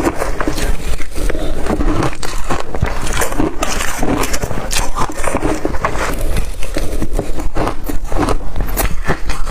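Close-miked crunching and chewing of blender-crushed ice: a steady run of crackly, irregular bites and crunches.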